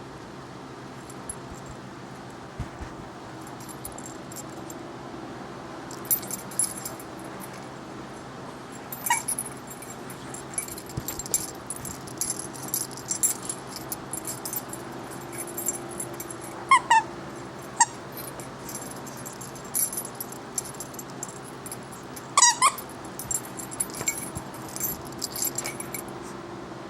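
A dog playing, with a metallic jingling and clattering, like collar tags or a toy, through most of it. Four short, high-pitched squeaks come along the way, the loudest about two-thirds of the way in.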